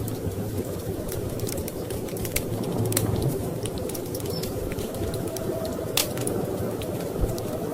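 Wood fire crackling in a fireplace, with scattered sharp pops and one louder pop about six seconds in, over a steady low rush of storm wind.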